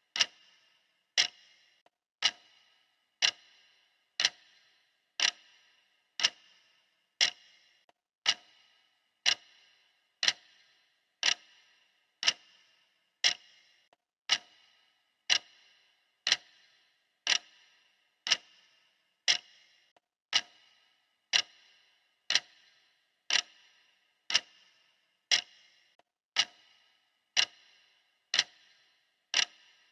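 Clock ticking steadily at one tick a second, each tick short and sharp with a brief ring.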